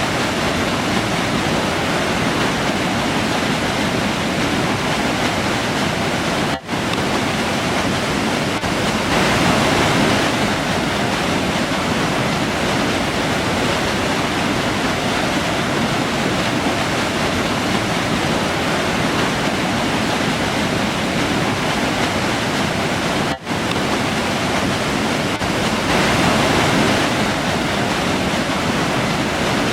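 Forest river rushing steadily, a constant full noise of flowing water, briefly dipping twice and swelling a little twice.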